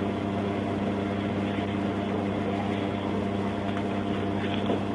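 Steady, even drone of an idling vehicle engine, a low hum holding several fixed tones with no change in pitch.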